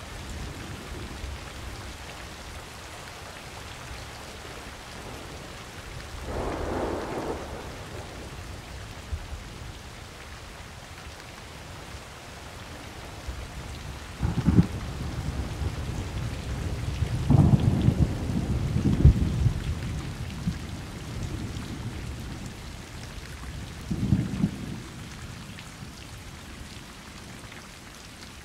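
Steady rain falling, with several rolls of thunder. A low rumble comes about a quarter of the way in, then a sudden crack about halfway. The loudest rolling peals follow a few seconds later, and a shorter rumble comes near the end.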